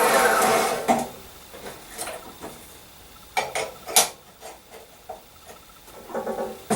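Chop saw motor spinning down with a falling whine after cutting through steel flat stock, then light metallic clinks and knocks as the cut steel and clamp are handled, with a sharp click about four seconds in and a short rattle near the end.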